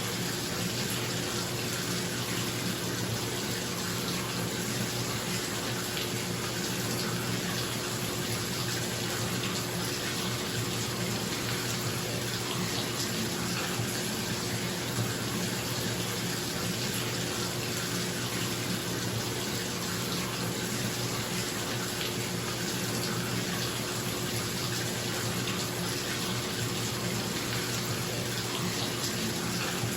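Bathtub tap running steadily into the tub, an even rushing hiss, with a bathroom exhaust fan's steady hum underneath.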